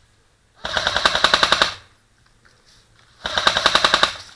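Airsoft gun firing two full-auto bursts, each about a second long, with a short pause between.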